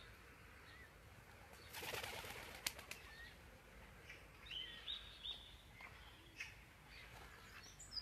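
Quiet pond-side ambience: a short flutter of bird wings about two seconds in, then a few faint, high chirps from a small bird around the middle.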